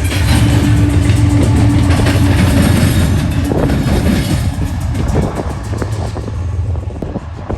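Freight train rolling past close by: a heavy rumble with rapid wheel clicks over the rail joints. It grows quieter in the second half.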